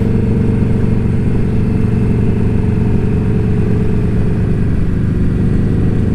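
Indian Scout Bobber's V-twin engine running at a steady cruising speed, its exhaust note holding an even pitch.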